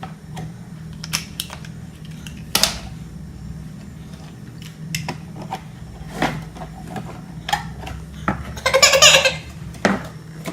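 Scattered sharp clicks and knocks over a steady low hum, with a baby's short squealing cry about nine seconds in.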